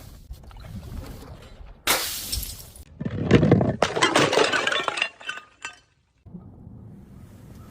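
Glass shattering twice: a sharp break about two seconds in, then a louder, longer smash about three seconds in, with shards tinkling and scattering until nearly six seconds.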